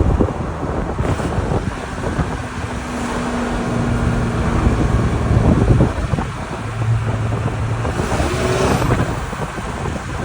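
A 12-valve Cummins turbodiesel with a Holset turbocharger running loudly, its low engine note coming and going, with wind noise on the microphone.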